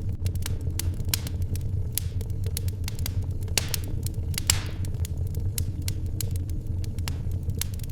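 Wood fire in a fireplace crackling, with irregular sharp pops over a steady low rumble. A louder pop with a brief hiss comes about four and a half seconds in.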